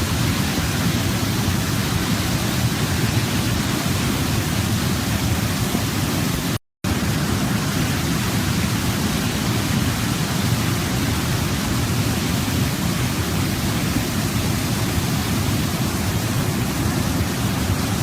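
Waterfall: a steady rush of falling water, strongest in the low range. The sound cuts out completely for a split second about six and a half seconds in, then resumes unchanged.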